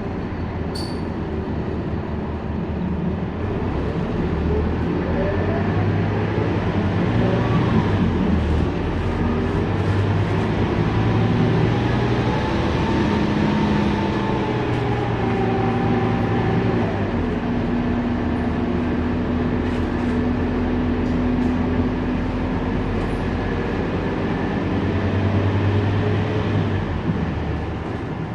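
Scania K230UB city bus's diesel engine running under way, its pitch rising and falling several times as the bus pulls away and changes speed, with a steady whine holding for several seconds past the middle.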